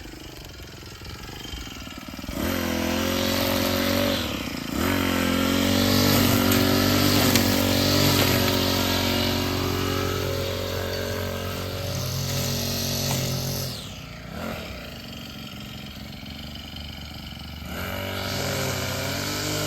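Small petrol engine of a garden power tool being throttled up and down. It starts low, revs up after about two seconds and runs hard for most of the time, drops back for a few seconds, then revs up again near the end.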